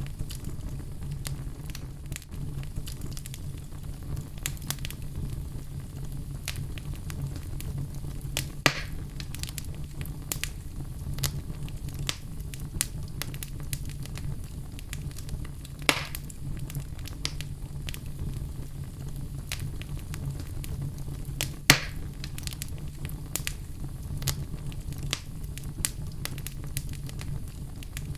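Wood fire burning in a fireplace: a steady low rumble of flame with frequent small crackles and a few louder sharp pops, the loudest about 22 seconds in.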